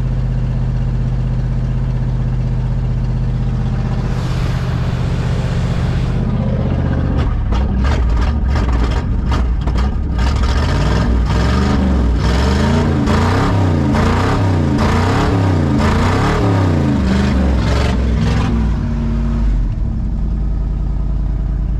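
1979 Ford F150's carbureted V8 running, first at a steady idle. About seven seconds in the engine speed starts rising and falling over and over, roughly once a second, then it settles back to idle near the end. The owner puts its rough running down to vacuum leaks around the carburettor.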